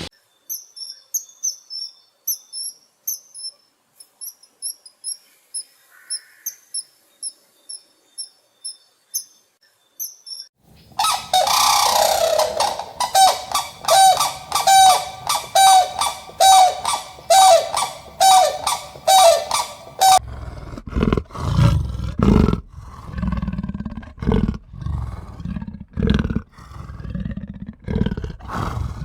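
A run of different animal calls. High, thin repeated chirps fill about the first ten seconds. A loud, dense stretch of quickly repeated calls follows, about two a second, and deeper calls come in the last third.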